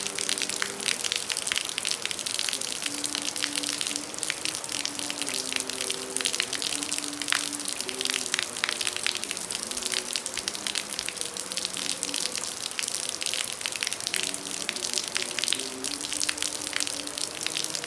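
Heavy rain pouring steadily, a dense hiss with many sharp drop hits, and a faint held melody in the background, its notes stepping slowly up and down.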